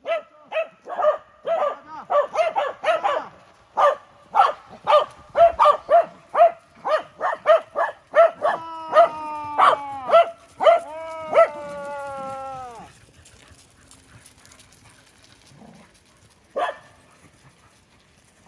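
Welsh corgis barking excitedly, about two barks a second for the first 13 s or so. From about 8 to 13 s a long, drawn-out howl with slowly falling pitch runs over the barking. One last bark comes near the end.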